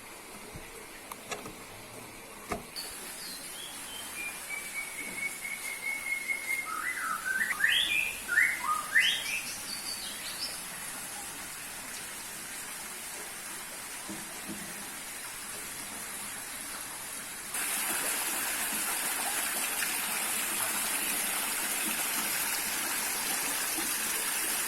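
A songbird sings one short phrase of whistled notes: a long downward slide followed by a run of quick rising and falling notes. Later a steady hiss comes in and holds.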